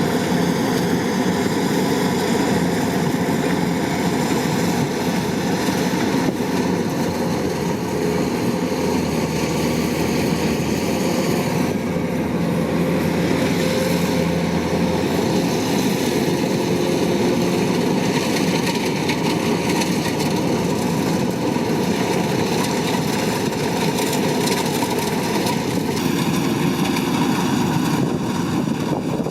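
Kubota DC-105X combine harvester running steadily, its diesel engine and machinery making a continuous loud drone, the note shifting slightly a couple of times.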